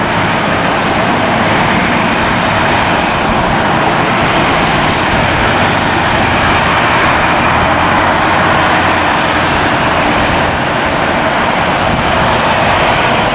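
Jet airliner engines running, a loud steady noise with a faint high whine above it.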